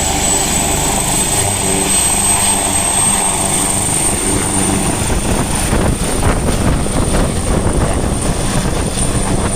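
Steady, loud mechanical running noise, like an aircraft or rotor, with a thin high whine that creeps slightly upward in pitch over a low, even hum.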